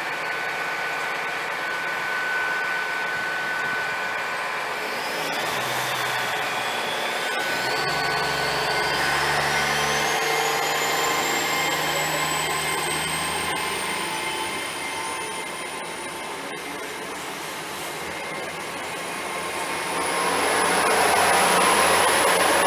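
Class 802 bi-mode trains pulling away on diesel power: underfloor engines running with a steadily rising whine from the traction equipment as they gather speed, getting louder near the end.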